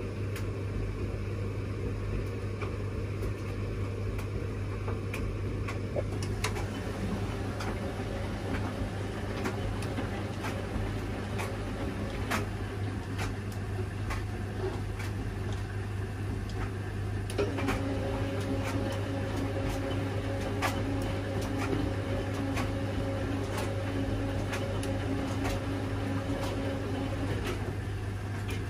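Washing machine running a wash cycle: a steady hum and rumble with scattered clicks as the drum turns the laundry. About halfway through, a steady motor whine sets in for roughly ten seconds, then drops away.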